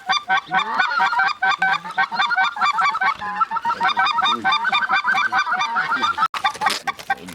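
Many geese honking and clucking at once, a dense, continuous run of short overlapping calls.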